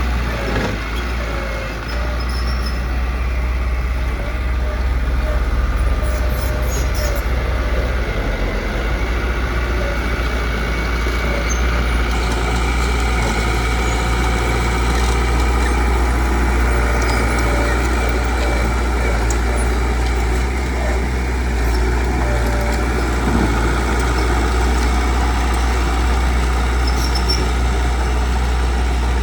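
Heavy diesel engine of road-construction machinery running steadily with a low drone.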